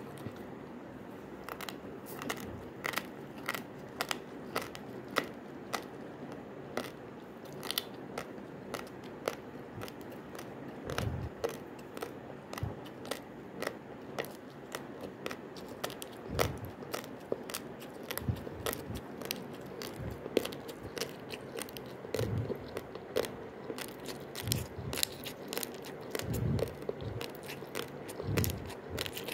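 Raw basmati rice being chewed: irregular sharp, dry crunches of the hard grains, a few each second, with occasional dull low thuds.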